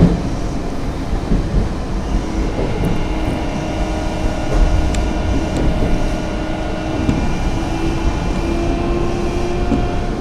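Nankai 8000-series electric train running, with a steady low rumble and a whine of several steady tones that rises slightly in pitch over the second half.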